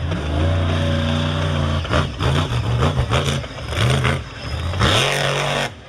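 Monster truck engine running hard at high revs, then revved up and down in several quick blips from about two seconds in, with loud bursts of rushing noise near the end.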